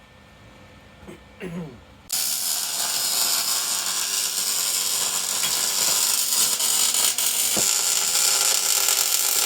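A power tool starts abruptly about two seconds in and runs steadily, a loud, even, high-pitched mechanical whir.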